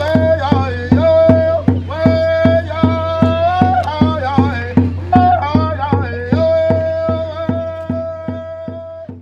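Powwow-style song: a drum struck in a steady beat of about two and a half strokes a second, with singing holding long notes over it, fading out near the end.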